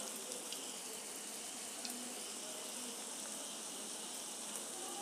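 Breadcrumb-coated veg cutlets shallow-frying in hot oil on a tawa: a faint, steady sizzle with a few small ticks.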